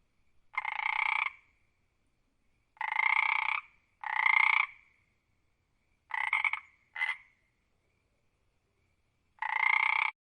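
A frog croaking: six separate rasping calls of about half a second to under a second each, spread a second or more apart, the fifth short and close after the fourth.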